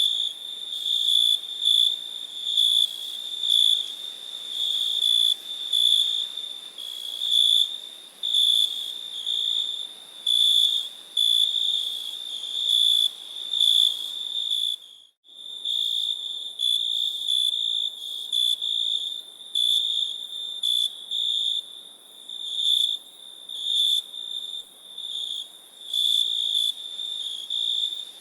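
Crickets chirping: a high, pure chirp that pulses about twice a second. The chirping cuts out briefly about halfway through, then resumes.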